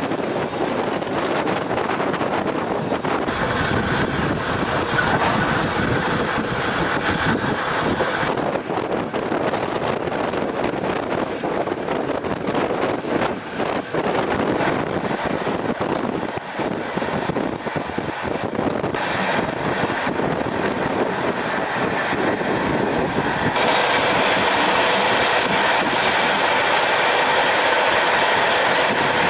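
Noise of a moving freight train heard from aboard a wagon: steady rolling of steel wheels on the rails and rattle of the wagon, with thin steady tones on top in parts. The sound changes abruptly a few times, at cuts between ride clips.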